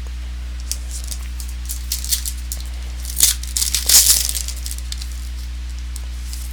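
Trading card pack wrapper being handled and torn open: scattered small crackles build to a louder crinkling burst about three to four seconds in, over a steady low electrical hum.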